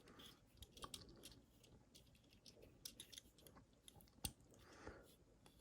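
Faint scattered clicks and light scrapes of a plastic Transformers Astrotrain toy being handled, with one sharper click about four seconds in.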